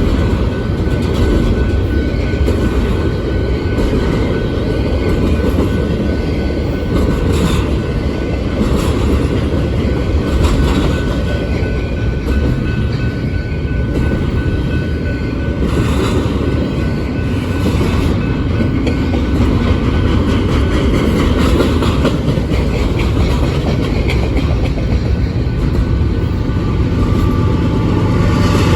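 Intermodal freight cars rolling past, a steady rumble of steel wheels on rail with irregular clacks as wheelsets cross rail joints.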